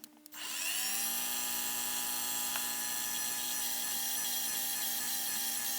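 Electric drilling machine in a workshop switched on with a click, its motor spinning up over about half a second, then running steadily with a whine made of several tones.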